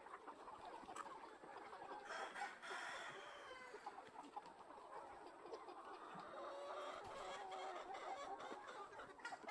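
A large flock of farm chickens clucking and calling all at once, faint, with one louder drawn-out call about two seconds in.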